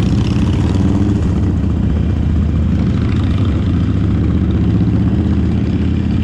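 Motorcycle engine running steadily at a constant speed while riding, loud and even throughout.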